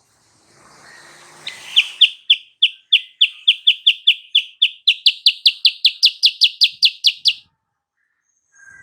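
Kutilang sutra singing: a long run of sharp repeated notes that starts about a second and a half in, speeds up to about five notes a second, steps up in pitch midway and stops shortly before the end. A soft hiss comes before and under the first notes.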